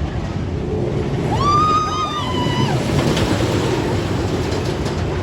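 Storm Chaser roller coaster train rumbling along its track, a steady low roar. A brief high-pitched wail rises over it about a second in and lasts just over a second.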